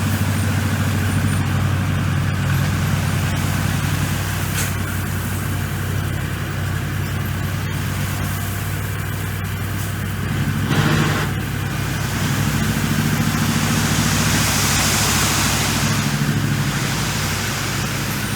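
Bulldozer's diesel engine running steadily under work. A brief rush of noise comes about eleven seconds in, and a high hiss follows a few seconds later.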